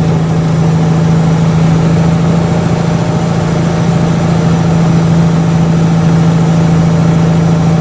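Mack truck's diesel engine running at a steady speed, a constant low drone, heard from inside the cab.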